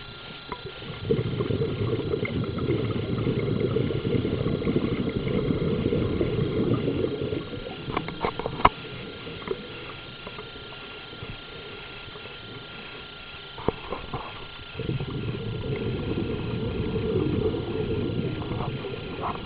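Low rumbling noise in two long stretches of several seconds each, with a few sharp clicks in the quieter gap between them.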